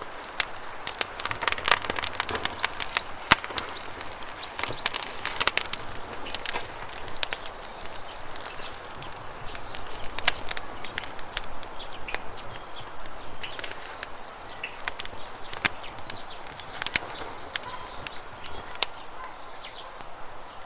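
Campfire crackling with many sharp pops and snaps, densest in the first few seconds, over a steady rush of flowing river water. Small birds chirp now and then, mostly in the second half.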